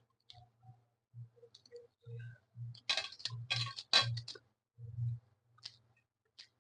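Close-up mouth sounds of a person eating rice and paneer curry: chewing with short low thumps and smacking clicks, densest about three to four seconds in.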